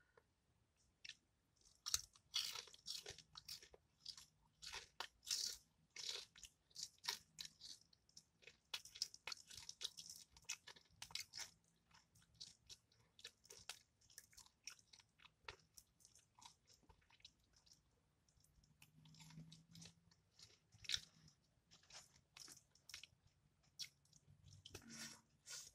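Close-up mouth sounds of chewing fried, breaded fish: irregular crisp crunches and crackles, busiest in the first half and again near the end, sparser in the middle.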